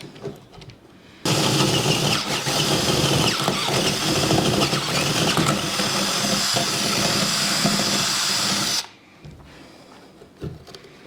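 Power drill boring a 1.5-inch hole through a wooden board, running steadily for about seven and a half seconds from about a second in, then stopping suddenly.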